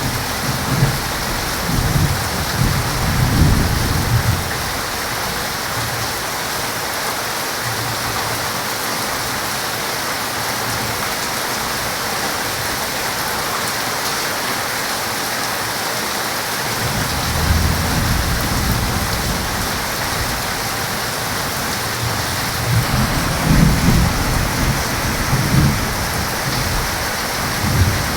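Heavy rain falling in a steady hiss, with low rolling thunder in the first few seconds, again about two-thirds of the way through, and repeatedly near the end.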